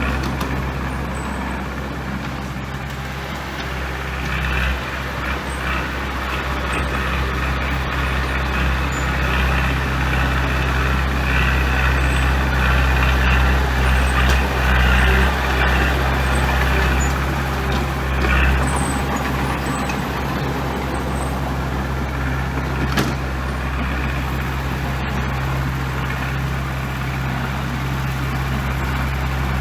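Diesel engine of heavy earthmoving equipment (bulldozer or dump truck) running under steady work. It is a low drone that grows louder about five seconds in and drops back at about eighteen seconds.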